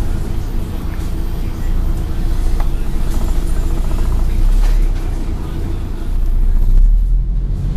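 Scania N113 bus under way: the diesel engine's low, steady drone with road noise, easing off briefly near the end.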